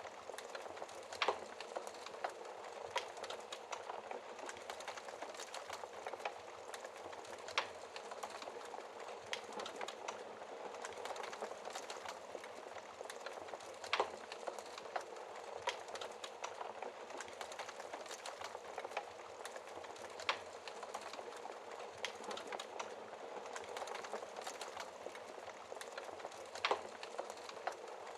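Logs burning in a fireplace: a steady crackling hiss, with a sharp pop about every six seconds, the loudest about halfway through.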